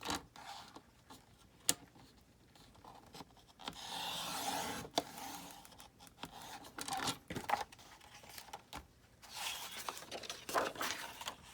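Paper being cut and handled: scattered clicks and rustles, with two longer stretches of cutting and rustling about four seconds and ten seconds in.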